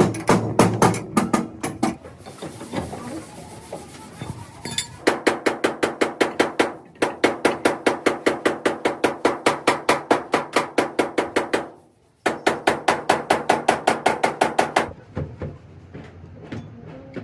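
Hammer beating sheet metal in quick, even blows, about five a second, in three runs with short pauses between them, as in panel-beating car bodywork.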